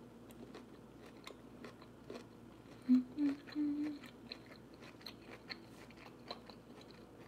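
A person chewing a mouthful of food with her mouth closed: soft, wet mouth clicks throughout. About three seconds in there is a short hummed 'mm-mm-mm'.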